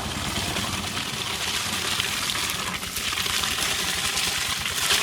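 Water running and splashing steadily, a continuous hiss.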